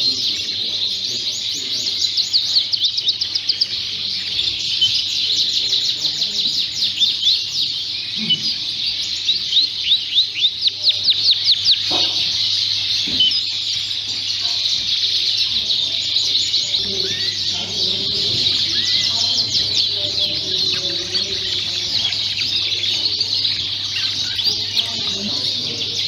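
Many caged Fife fancy canaries singing at once, a dense chorus of overlapping chirps and fast trills, with louder runs of rapid repeated notes now and then.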